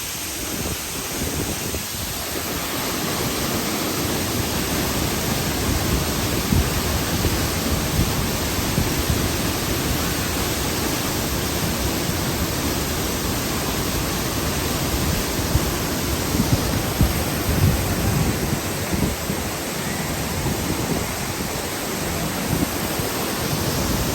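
Waterfall pouring, a steady rushing hiss of falling water, with irregular low rumbles underneath.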